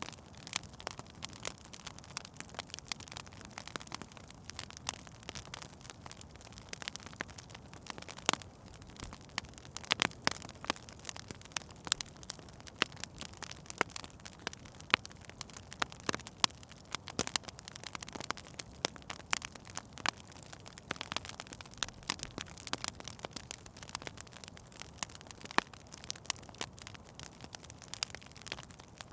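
Wood fire burning in a fireplace: a steady soft hiss with irregular sharp crackles and pops, some much louder than the rest.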